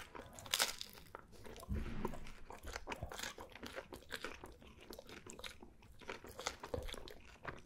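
Close-miked chewing and biting of crisp pizza crust and baked cheese: an irregular run of small crunches.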